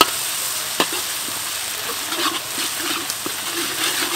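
Chopped garlic and chili paste sizzling in oil in a large steel wok, with a metal spatula scraping and clicking against the pan as it is stirred; sharp clicks at the start and about a second in.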